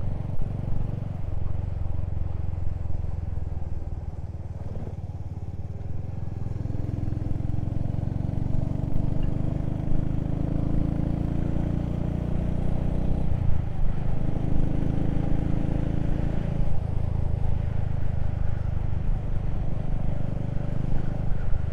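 Motorcycle engine running steadily under way, its note dipping briefly twice about two thirds of the way through.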